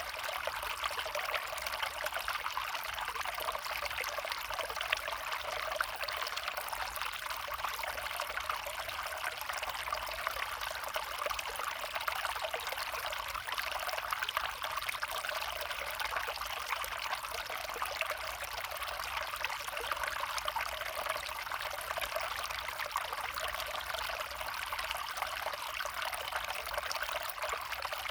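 A small brook flowing: a steady trickling rush of water that holds even throughout.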